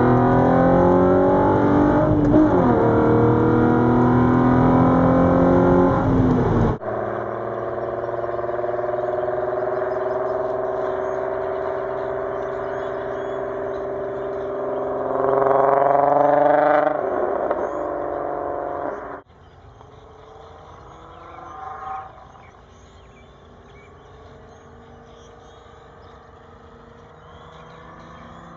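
3.2-litre VR6 engine of a 2004 Volkswagen Golf R32 with an aftermarket full exhaust, pulling hard at full throttle with rising revs and an upshift about two seconds in. It cuts suddenly to the engine running at steadier revs that climb and then drop again, and then cuts to a much quieter engine sound for the last third.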